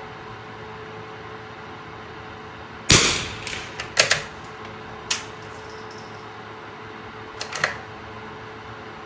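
A single .22 rimfire rifle shot from a Winchester 52C bolt-action target rifle, a sharp crack about three seconds in. It is followed by a string of metallic clicks over the next few seconds, the bolt being worked to eject the case and chamber the next round.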